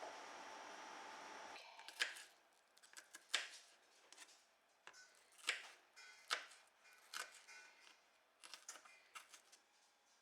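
A steady hum that cuts off suddenly about a second and a half in, then light, scattered clicks and taps, about a dozen of them, irregularly spaced.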